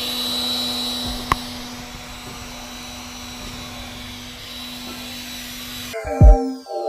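Steady whir of an electric fan motor with a low hum and a faint high whine, broken by one sharp click about a second in. Near the end it cuts off abruptly and short bursts of music take over.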